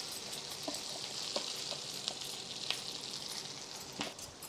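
Fresh curry leaves sizzling as they drop into hot oil in a cast-iron kadai: a steady frying hiss with a few light pops, slowly dying down near the end.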